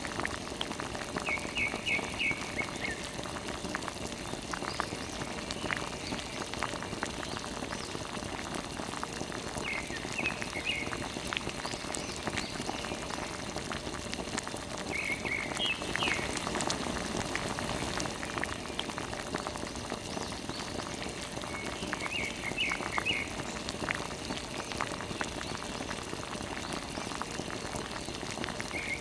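Steady splashing and spattering of water, like a small pump's jet spraying. Several times, a short run of quick high chirps cuts through it.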